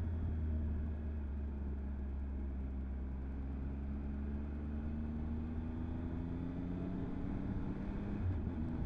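Motorcycle engine running while riding, heard from a helmet camera with a heavy steady rumble of wind on the microphone. The engine note eases off just after the start, then climbs slowly as the bike picks up speed.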